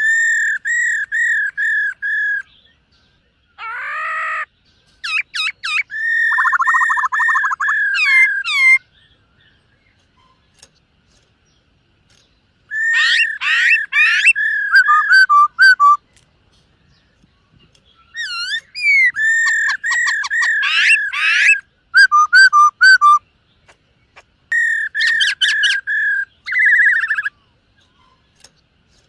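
Black-throated laughingthrush singing: phrases of rapidly repeated clear whistled notes, each lasting a few seconds, with pauses between them and one harsher, rougher note about four seconds in.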